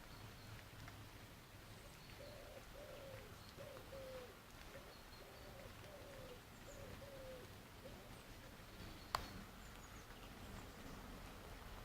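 A pigeon cooing faintly, a run of short falling notes lasting several seconds, with faint high chirps of small birds. One sharp click about nine seconds in.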